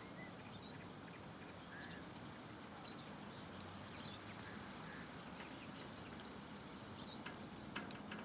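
Small birds chirping faintly and sporadically, short high calls scattered through, over a steady background hiss and low hum.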